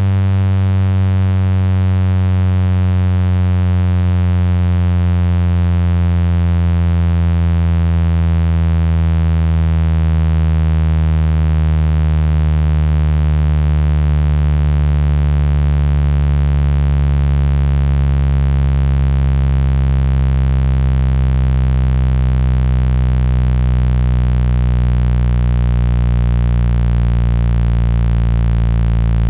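Synthesized speaker-cleaning tone: a loud, deep electronic buzz with many overtones, pitched slowly downward, played to vibrate a phone speaker's diaphragm and push out trapped water and dust.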